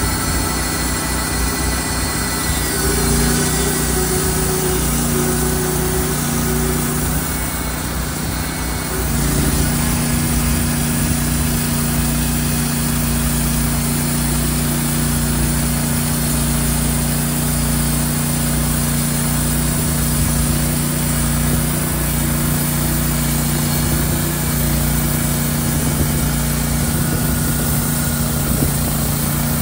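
An engine running steadily, shifting in pitch a few seconds in and settling into an even, steady speed about nine seconds in.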